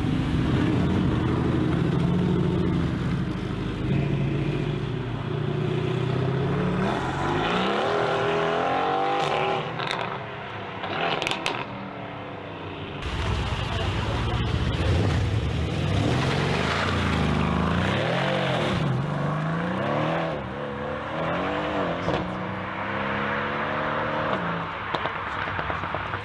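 Mercedes-AMG cars' engines and exhausts: a steady low drone at first, then repeated revving and accelerating, the pitch climbing and dropping again several times, with a short quieter lull partway through.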